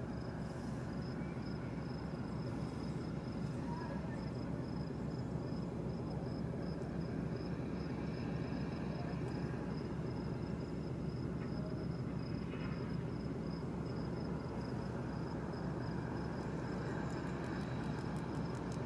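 Diesel freight locomotives giving a steady low rumble, with a high, steady insect trill over it.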